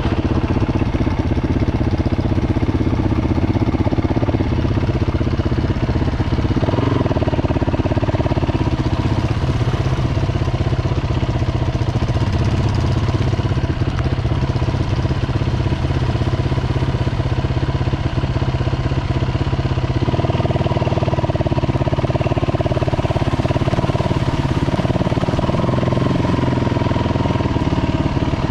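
Dirt bike engine running steadily, with small shifts in pitch about a quarter of the way in and again about two-thirds of the way in.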